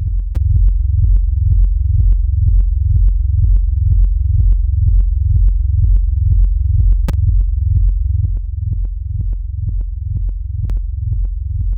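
Electronic music in progress: a deep synthesizer bass with short clicky hits about four times a second. A few sharper clicks stand out, about half a second in, around seven seconds and near the end, and the level dips a little after about eight seconds.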